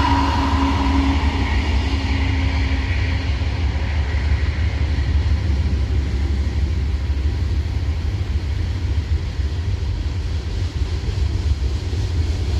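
Freight train rolling past on the tracks, a steady low rumble. A higher steady whine fades away over the first few seconds.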